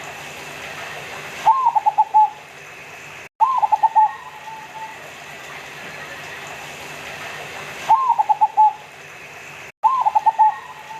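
Zebra dove (perkutut) of the local Indonesian type cooing: four phrases, each a rising opening note followed by a quick run of short rolling coos, coming in two pairs about six seconds apart.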